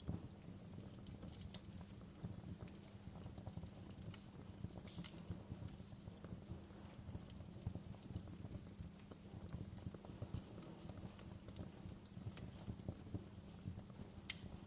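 Wood fire crackling in a fireplace: a steady low rumble under many small snaps, with a few sharper pops.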